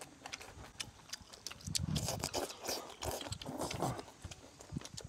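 Close-miked chewing of a mouthful of greens and rice, with many sharp wet lip-smacks and mouth clicks.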